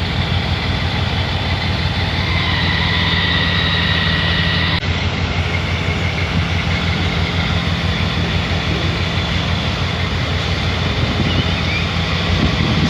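Heavy construction machinery running steadily, a low engine hum with a faint high whine above it, with an abrupt change about five seconds in.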